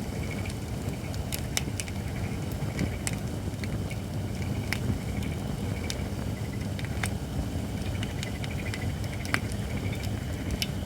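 Campfire of Japanese white oak logs on a fire pan: about seven sharp pops and crackles scattered over a steady low rumble. The oak is not yet fully dry.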